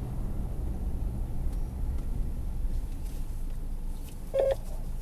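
Steady low engine and road rumble inside a moving car, with a short pitched blip about four seconds in.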